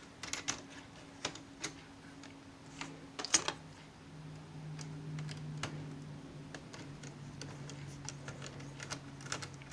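Pliers clicking and tapping against a laptop's small plastic and metal parts, working a loose piece out, as a scatter of light irregular clicks. A faint steady hum runs underneath.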